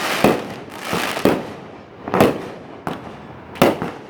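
Fireworks bursting: about five sharp bangs, roughly one a second, each trailing off, with crackling between them.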